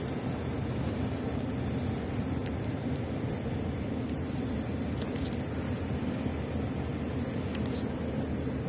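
Running noise of an Ivolga EG2Tv electric train in motion: a steady rumble of wheels on rail with an even low hum from the drive.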